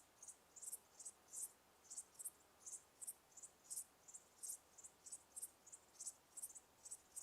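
Crickets chirping faintly, short high-pitched chirps repeating about three to four times a second.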